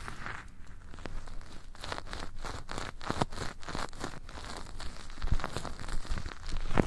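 Close-mic ASMR rubbing and scratching on the microphone: a dense, irregular run of crackles and rustles, with a few heavier soft thuds near the end.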